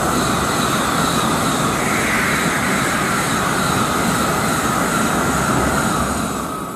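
A Tokaido Shinkansen train passing through a station at high speed without stopping: a loud, steady rushing noise that swells up just before and dies away near the end.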